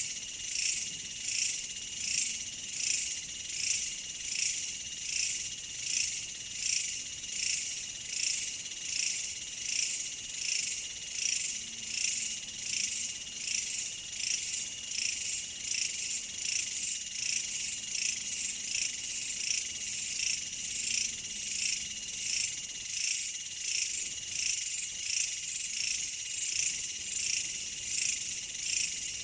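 Crickets chirping in a dense, high-pitched chorus that swells and fades in an even rhythm, about three pulses every two seconds.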